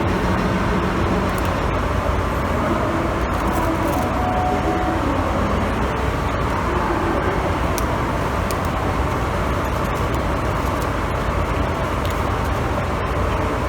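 A DE10 diesel-hydraulic locomotive's engine running steadily, giving a constant low rumble.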